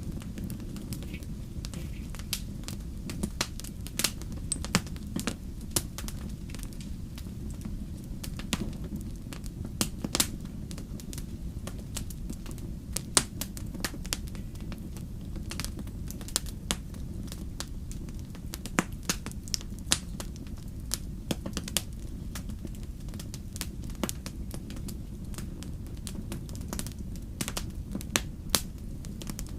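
Wood fire burning in a fireplace, crackling and popping in sharp, irregular snaps over a steady low rumble.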